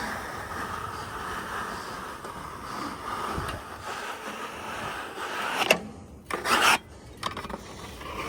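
Heavy wooden cant scraping and rubbing on the sawmill bed as it is turned 90 degrees, with a sharp knock just before six seconds in and a loud bang of wood on the bed a moment later.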